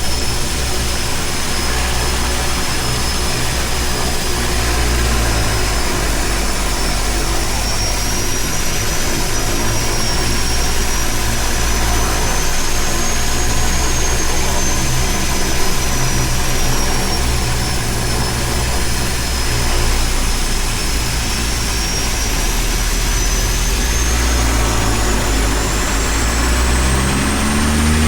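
Seaplane's turboprop engines running steadily: a loud low drone with a high turbine whine that slowly wavers in pitch. Near the end a new low engine tone rises in.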